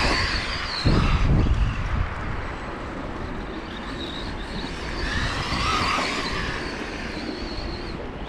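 Arrma Granite BLX RC truck's brushless motor whining as it is driven through deep snow, its pitch rising and falling with the throttle. There is a loud low rumble about a second in.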